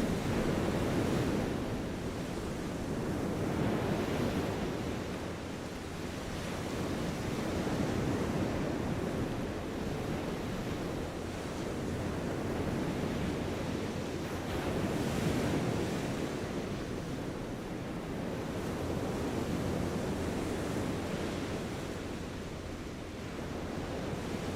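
Steady rushing background noise, strongest in the low range, that swells and fades every few seconds.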